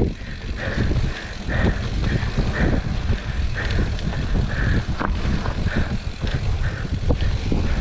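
Mountain bike descending a wet, muddy trail: a steady rumble of wind and ride noise, broken by scattered sharp knocks and rattles as the bike goes over bumps.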